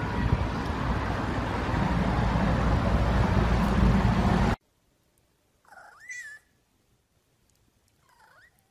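A cat meowing twice: a short pitched meow about six seconds in and a fainter one near the end. Before them, a loud noisy rush cuts off suddenly about four and a half seconds in.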